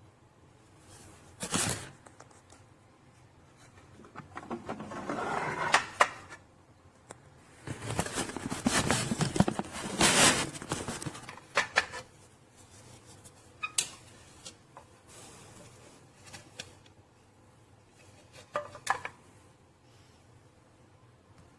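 Handling noises: a run of sharp clicks, knocks and light clatter with rustling, busiest in the middle, then a few scattered clicks.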